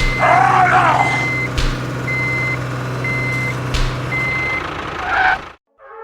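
A truck's reversing alarm beeps about once a second over a steady engine idle, with a couple of short hissing bursts and two clicks in between. The sound cuts out shortly before the end.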